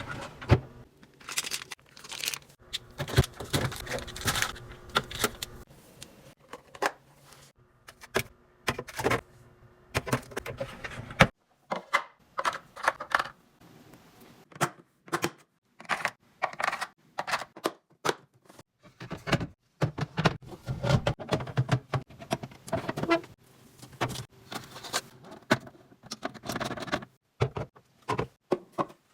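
Plastic fridge organiser bins and packaging being handled: a busy run of clicks, taps, knocks, scrapes and rustles, cut off abruptly a couple of times.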